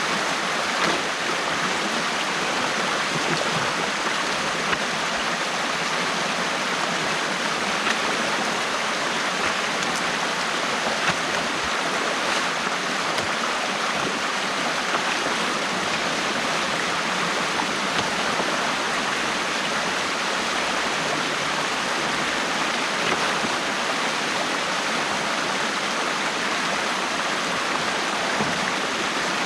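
Water rushing steadily through the opening in a partly removed beaver dam, with a few brief faint splashes or knocks.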